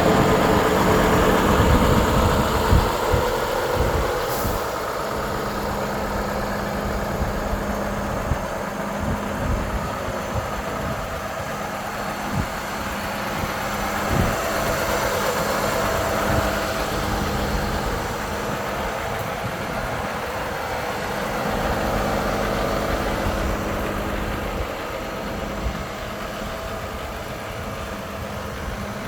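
Volvo FH 500 truck's 13-litre six-cylinder diesel idling steadily, with a few short knocks.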